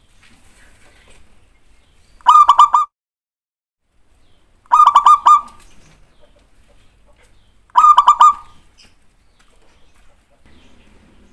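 Zebra dove (perkutut) cooing: three short bursts of quick, rippling coos, each about half a second long, spaced a couple of seconds apart.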